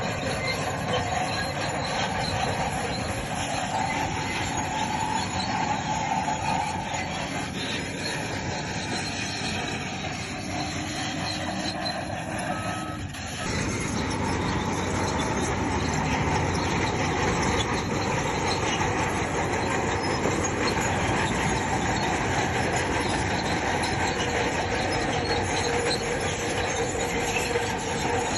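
Bulldozer working, its diesel engine running under load while its steel tracks squeal and clank. The noise eases briefly about halfway through, then carries on.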